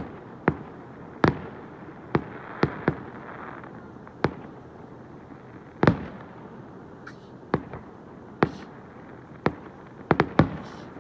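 Aerial firework shells bursting, heard as about fifteen sharp booms at irregular intervals, each with a short echo. A faint crackle follows one of the early bursts, and several booms come in quick succession near the end.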